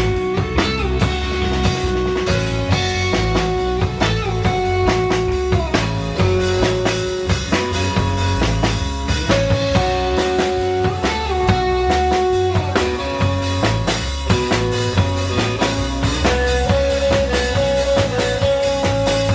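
Surf rock band playing an instrumental: electric guitar carrying the melody in long held notes over bass and a steady drum-kit beat.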